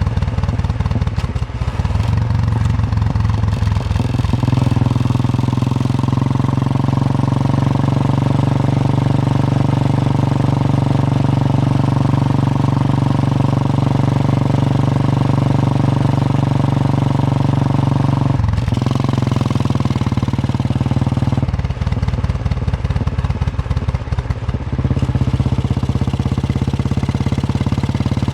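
Royal Enfield Bullet 350's single-cylinder engine thumping while riding at a steady pace. The engine note changes several times, with a brief dip about eighteen seconds in and another change a few seconds later, as the throttle or gear changes.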